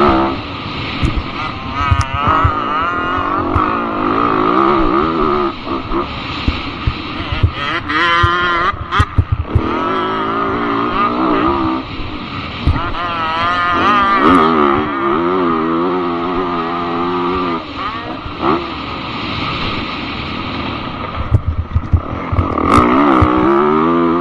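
Dirt bike engine on a motocross track, revving up and falling back over and over as the rider works the throttle through the ride, heard from a helmet camera. Scattered sharp knocks and thumps run under it.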